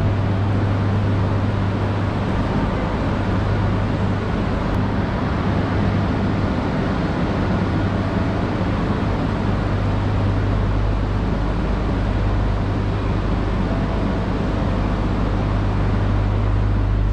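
Steady hum and rush from a stopped E3-series Shinkansen train's onboard equipment, heard up close alongside it. A deeper rumble underneath grows stronger in the second half.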